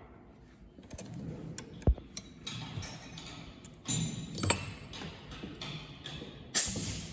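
Irregular small clicks, taps and knocks of parts and tools being handled at a machine bench, with a short, loud rushing burst near the end.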